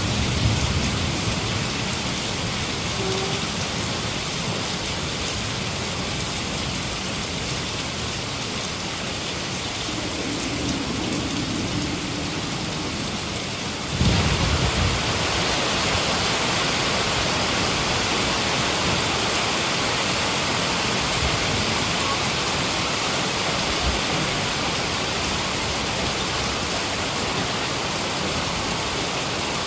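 Heavy rain falling steadily, with thunder. A low rumble fades at the start, and about halfway through a sudden low rumble comes in and the rain turns louder for the rest.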